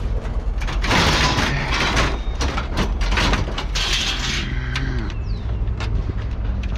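A heavy engine running steadily under repeated metal clanks, clatters and scraping, the sound of scrap metal being handled.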